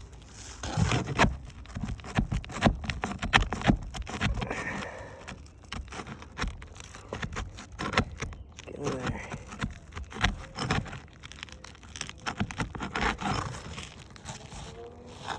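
Irregular scraping, crackling and knocking as asphalt roof shingles are pried up to break their seal.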